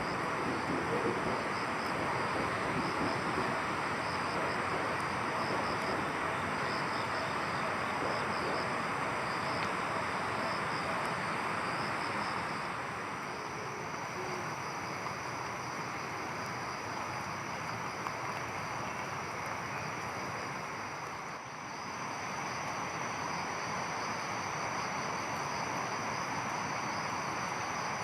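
Insects singing in steady high-pitched bands, with a pulsing trill in the first half, over a constant rushing noise.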